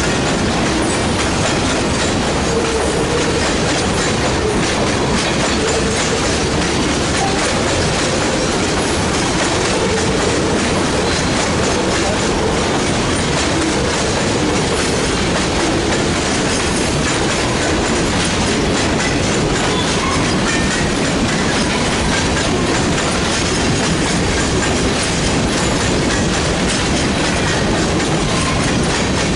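Freight train rolling past, its steel wheels clacking steadily over the rail joints.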